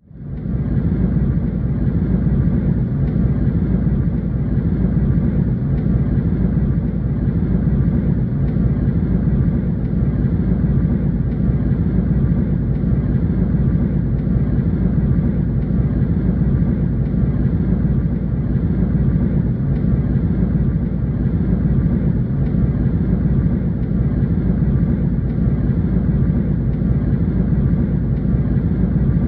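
Airliner cabin noise on the approach before landing: a steady low rumble of jet engines and airflow. It fades in over the first half-second, then holds.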